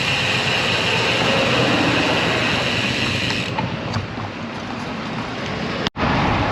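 Wind rushing over the camera microphone with road noise from a road bike on the move, a steady roar that dulls a little about halfway through and drops out for an instant near the end.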